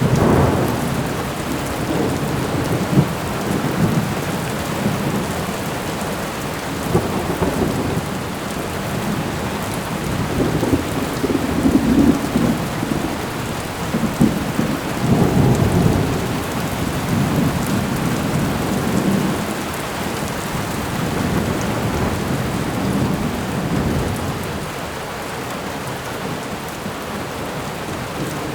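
Thunderstorm: steady rain falling, with rolling thunder that rumbles low in several long swells, heaviest around the middle, and dies away near the end.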